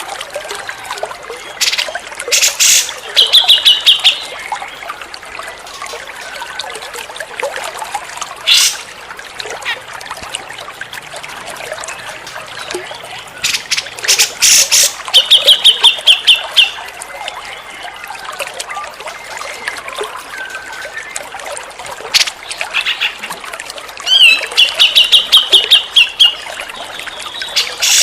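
Cucak jenggot (grey-cheeked bulbul) calling: three runs of fast, evenly repeated high notes, mixed with sharp, loud clicky calls, over a steady trickle of running water.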